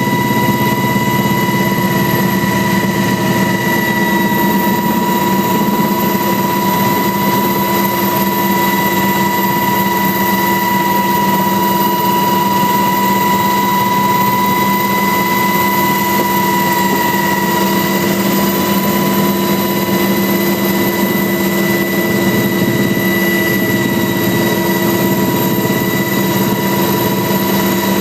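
Helicopter running steadily, a continuous engine drone with a high whine that holds an even pitch and loudness throughout.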